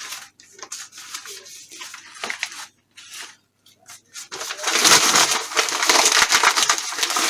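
Newspaper being crumpled and rustled while kindling is laid in a fireplace: scattered rustles at first, then loud, dense crumpling from about halfway through.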